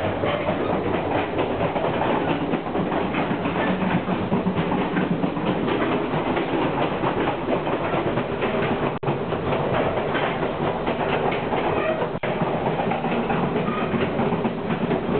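Passenger train running down old track, heard from between the cars: a steady rumble of wheels on rails with continual clatter and rattling of the car ends.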